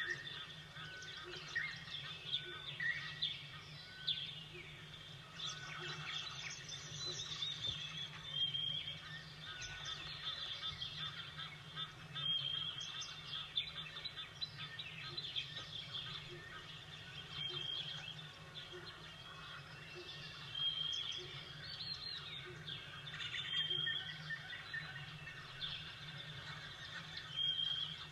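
Several songbirds chirping and calling, their short notes overlapping; one brief whistled note recurs every couple of seconds.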